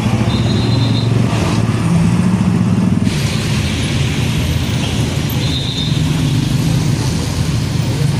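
Heavy diesel trucks running past in road traffic: a steady engine drone whose pitch shifts as the vehicles go by.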